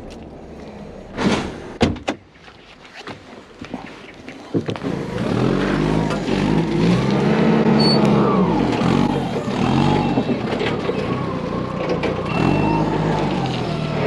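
Heavy goods vehicle's diesel engine pulling away, its pitch rising and falling several times as it accelerates. Two sharp knocks come before it, in the first two seconds.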